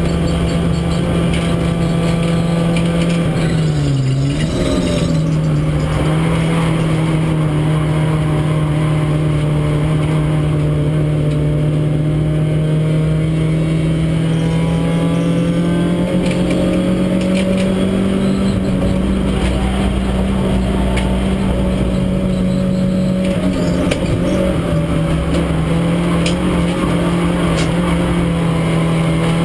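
Renault Clio race car engine heard from inside the cabin, running hard at high, near-steady revs. About four seconds in the revs drop sharply and climb straight back, and they dip briefly again near the end.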